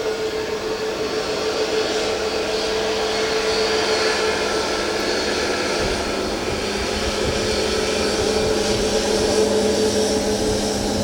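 Jet airliner engines running with a steady whine over a rushing noise, gradually growing louder.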